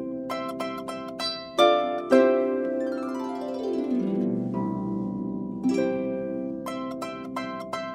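Harp being played: plucked notes and chords that ring on, with a descending run of notes in the middle.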